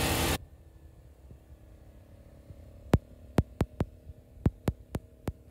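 A loud hiss-like burst of noise cuts off abruptly just after the start, leaving a faint steady hum. In the last two and a half seconds comes a run of about ten sharp clicks or knocks at uneven spacing.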